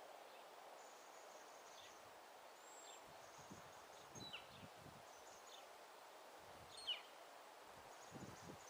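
Faint, scattered small-bird chirps over a steady outdoor hiss. A short descending chirp about seven seconds in is the loudest. There are a few faint low rumbles around four and eight seconds in.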